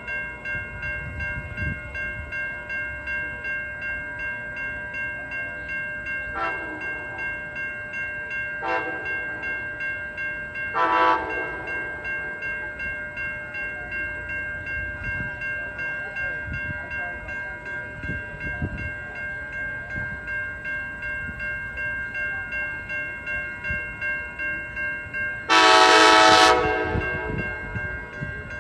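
Railroad crossing bells ringing steadily in a regular pulse while a train horn sounds three short toots in the first half, then one long, loud blast near the end.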